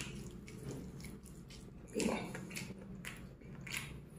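A person chewing a mouthful of crispy fried chicken: soft, uneven crunching and wet mouth sounds, with a somewhat louder chew about two seconds in.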